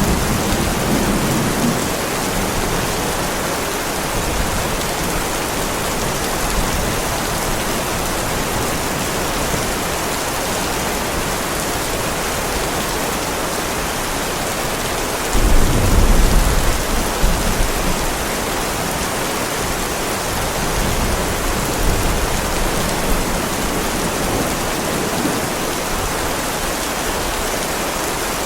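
Heavy rain falling steadily on a driveway, a constant even hiss. A low rumble of thunder fades out in the first second or two, and another rolls in suddenly about halfway through, dying away over a few seconds.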